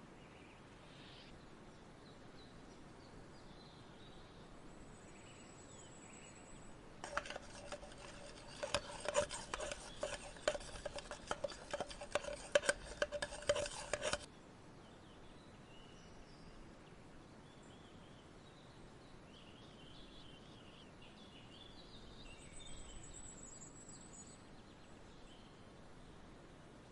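Outdoor nature ambience with faint bird chirps and a few thin high calls. A few seconds in, a louder raspy run of rapid clicks over a steady tone sounds for about seven seconds and cuts off suddenly.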